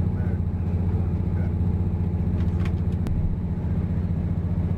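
Steady low rumble of a moving express passenger train, heard inside the carriage as it runs at speed, with a few faint clicks about two and a half to three seconds in.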